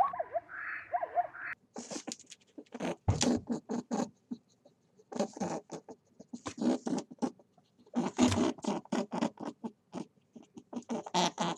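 A small animal's rapid clicking, like gnawing or scratching, in repeated bursts of about a second each, after a few faint squeaks at the start.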